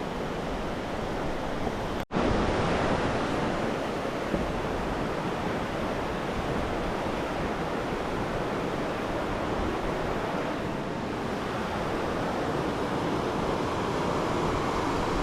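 Steady rushing water, an even roar with no pauses, which cuts out for an instant about two seconds in.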